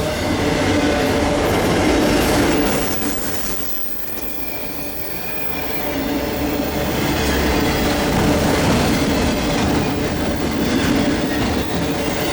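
Canadian National freight train passing close by: its diesel locomotives go by first, the sound eases about four seconds in, then the freight cars roll past steadily on steel wheels.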